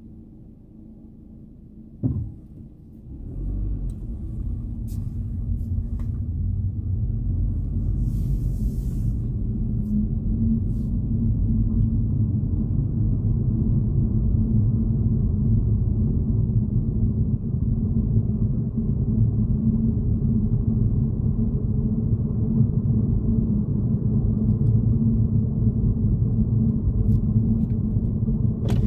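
A single thump, then low engine and road rumble inside a car's cabin that builds as the car gets under way and holds steady while driving.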